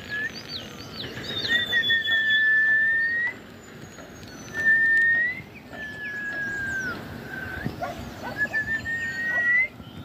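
Wild birds singing: about five long, clear whistled notes, most sliding upward at the end and one sliding down, among many short high chirps.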